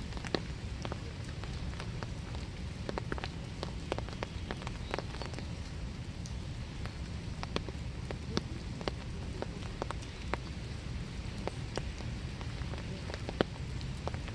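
Winter rain falling steadily in a wood, an even hiss with many separate drops tapping sharply and irregularly on nearby surfaces.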